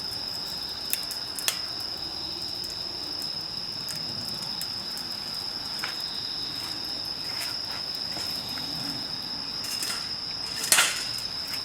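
Crickets trilling steadily in one unbroken high note, with scattered sharp pops of a crackling wood campfire and a louder rustling burst near the end.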